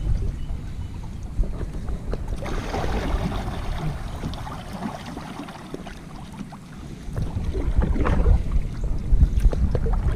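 Wind rumbling on the microphone over water and hull sounds from a kayak out on a river. The rumble eases in the middle and comes back stronger about seven seconds in.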